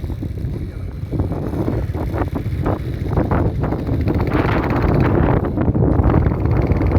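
Heavy wind rumble on the microphone, with a run of short, irregular knocks about two to four seconds in.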